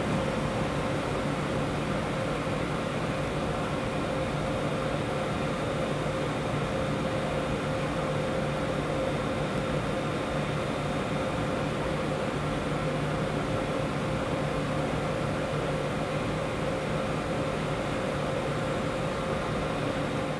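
ÖBB Railjet trainset standing at the platform, its on-board air-conditioning and auxiliary equipment humming steadily with a few fixed whining tones.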